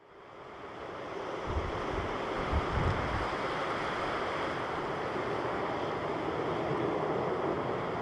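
Airbus A350-900 airliner's Rolls-Royce Trent XWB jet engines as a steady distant roar on landing approach, fading in at the start, with a few low wind buffets on the microphone early on.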